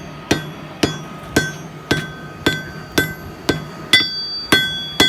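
Hand hammer striking hot steel on an anvil, a steady forging rhythm of about two blows a second, each blow leaving a short metallic ring; the blows come a little quicker and ring brighter near the end.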